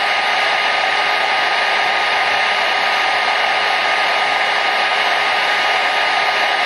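Hair dryer running steadily: an even rushing of air with a faint steady motor whine under it.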